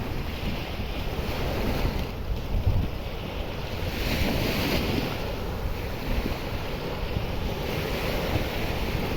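Sea surf washing onto a beach, the hiss swelling and fading every few seconds, with wind buffeting the microphone in a low rumble.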